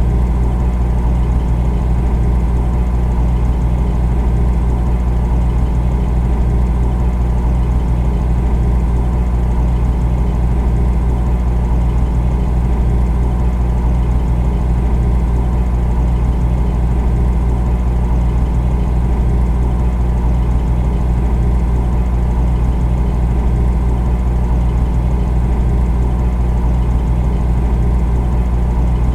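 Refrigerator running, a steady low hum that stays even and unchanging throughout.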